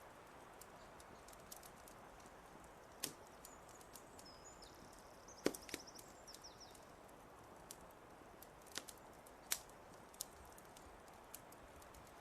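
Wood fire crackling quietly, scattered sharp pops with a few louder ones, over a soft hiss. A small bird gives a brief high twittering call about halfway through.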